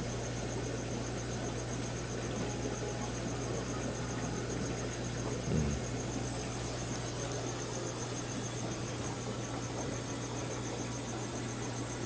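Steady hum and hiss of aquarium filters and pumps, with a high, even chirping pulse about five times a second running over it. A brief low sound comes about five and a half seconds in.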